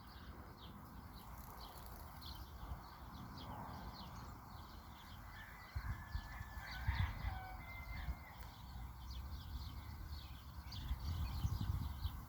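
Rural outdoor ambience: a rooster crows faintly about six seconds in, over rapid high chirping that keeps up throughout and a low rumble on the microphone.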